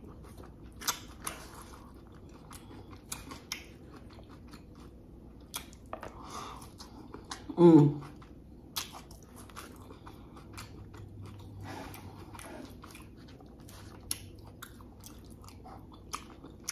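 Chewing and biting on a mouthful of a Chipotle bowl of lettuce, rice and chicken al pastor, with many small mouth clicks and crunches. About halfway through, a short hum slides down in pitch.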